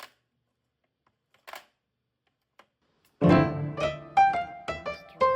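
About three seconds of near silence, broken by one brief soft noise, then solo piano music begins with a run of struck notes.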